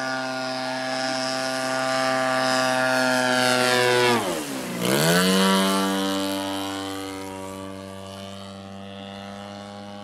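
Petrol engine and propeller of a 35%-scale Hangar 9 Extra 300 radio-controlled aerobatic plane, running hard in flight. About four seconds in, the pitch drops sharply as the throttle is chopped, then climbs straight back up. After that the engine sound slowly fades.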